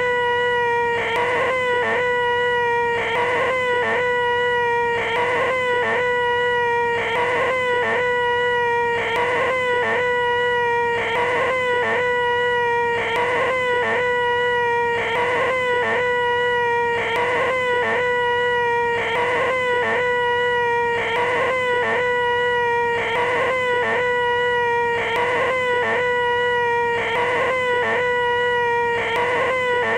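A man's voice making a loud, nasal, held 'eeeeh' whine at one steady pitch: the 'most annoying sound in the world' imitation. It breaks and restarts about once a second, as a repeated loop.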